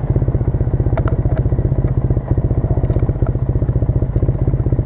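Triumph Bonneville's parallel-twin engine running steadily, with a rapid, even pulse.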